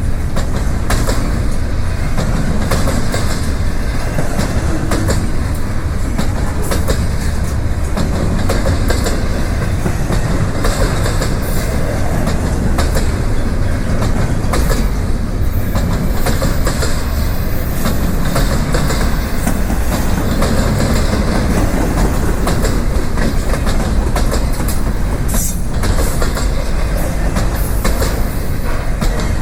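Freight train rolling past: a steady heavy rumble of wheels on rail, broken by frequent sharp knocks as the wheels pass over rail joints.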